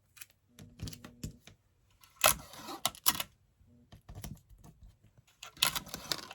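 Heat tape being pulled off the roll and torn, with paper and a small HDF blank handled on a tabletop: a few short rips and clicks, the strongest about two seconds in and near the end.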